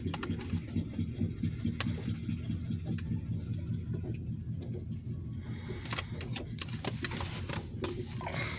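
Freight cars of a passing train rolling by: a steady low rumble with a fast rhythmic pulse and scattered clicks and clacks from the wheels, and more high-pitched hiss and rattle in the second half.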